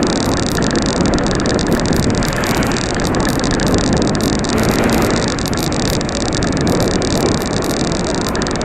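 Steady rushing noise of wind buffeting the microphone and road noise while riding a bicycle, with a slight swell near the middle as of traffic passing.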